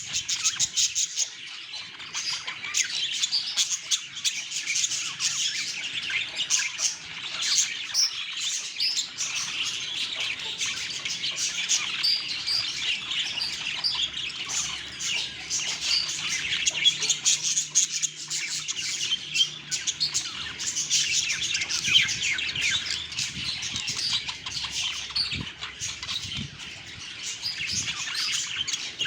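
Budgerigars chirping and chattering without a break.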